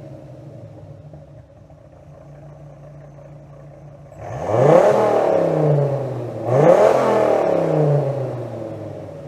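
Dodge Viper's Chrysler V10 idling, then blipped twice with the throttle: the revs shoot up and fall back to idle each time, about four seconds in and again a couple of seconds later.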